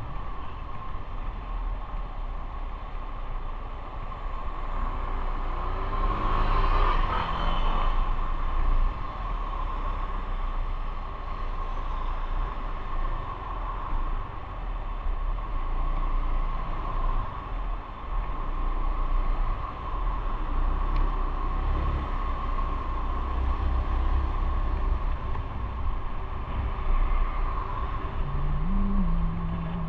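Motorcycle running on the road, its engine rumbling under steady wind and road noise. Near the end the engine note rises briefly, then holds steady.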